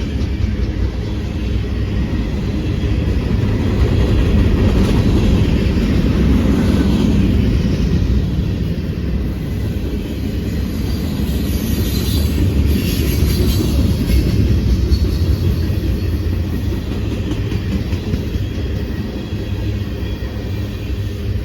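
Train running on the rails: a steady, loud rumble of wheels and cars.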